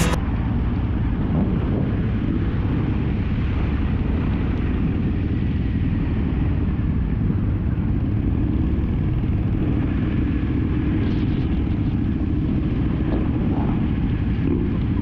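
Steady low rumble of a motorcycle ride: engine and wind noise on an action-camera microphone, with no change in pace.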